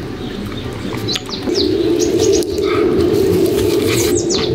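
Birds calling: short, quick falling chirps over a steady lower cooing.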